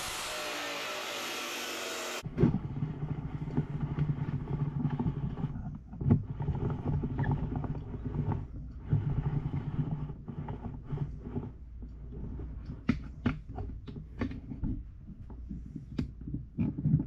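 Abrasive cut-off chop saw running with a steady hiss that stops abruptly about two seconds in. Then a low steady hum with scattered clicks and knocks, more frequent near the end.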